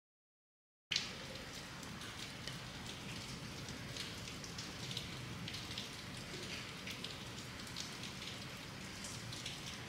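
Steady rain falling, an even hiss with many scattered individual drop hits. It cuts in abruptly about a second in.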